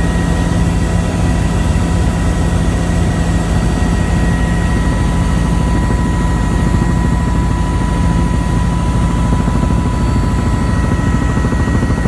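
Helicopter in flight heard from on board: a loud, steady drone of turbine engine and rotor with constant whining tones over it.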